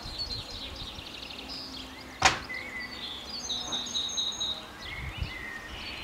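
Garden birdsong: small birds chirping and twittering, with one sharp knock a little over two seconds in.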